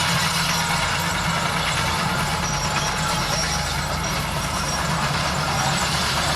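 Heavy diesel engine of a bulldozer running steadily, with a low engine note and a rattly, noisy mechanical layer above it.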